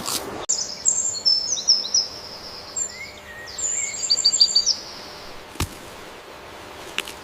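Small songbird singing a quick run of high chirps and trills for about four seconds, with a few lower sliding notes in the middle. A single sharp click follows near the end.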